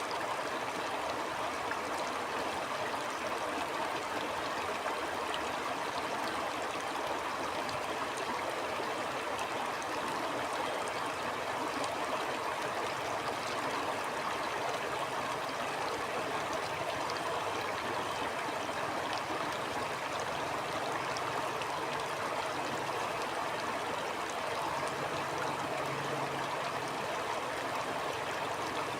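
A stream flowing steadily: an even rush of water, with faint high ticks scattered over it.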